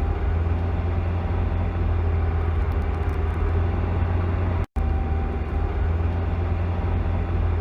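Steady low rumble and road noise of a car driving, as picked up by a dashcam, cutting out for an instant about two-thirds of the way through.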